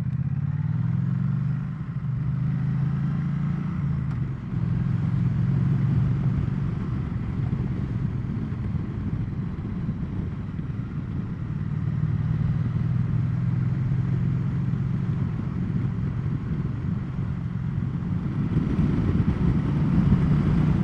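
Triumph Bonneville T100's parallel-twin engine running under way, pulling away and shifting up through the gears, with short dips in the engine note at the first two shifts, then holding a steady cruise. Wind and road rush sit under the engine.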